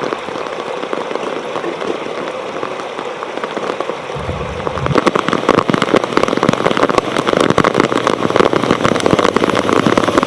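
Heavy rain, with dense rapid drop hits on the camera's waterproof case. It grows louder and thicker about four seconds in.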